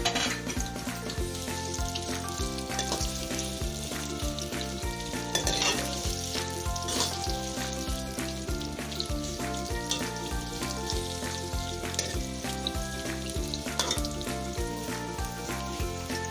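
Sliced onions sizzling in hot oil in a karahi on a low flame, stirred now and then with a spoon, as they begin to brown. Soft background music plays throughout.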